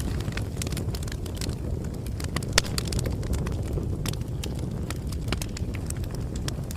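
Bonfire burning: a steady low rumble of flames, with frequent irregular crackles and pops from the burning wood and a sharper pop about two and a half seconds in.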